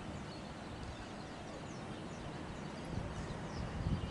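Faint outdoor ambience: a steady hiss with a few short, high bird chirps.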